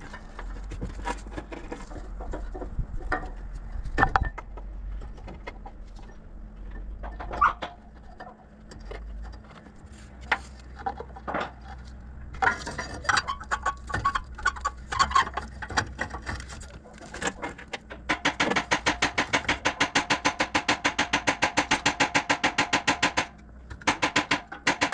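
Hand tools working on metal under the hood: scattered clanks and knocks, then, near the end, a fast even clicking of about eight clicks a second that lasts about five seconds.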